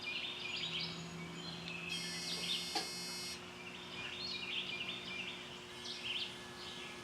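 A bird chirping: short, high chirps in quick clusters about once a second, over a steady background hiss.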